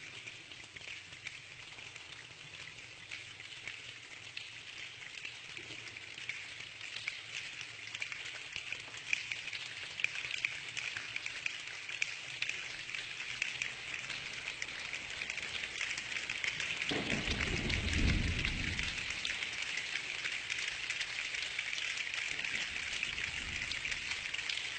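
Steady rain hissing, growing gradually heavier. A low rumble of thunder comes about two-thirds of the way through.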